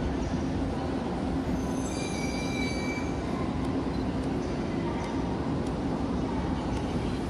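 Shinkansen train standing at the platform, its onboard equipment giving a steady hum. A brief high ringing tone sounds about two seconds in.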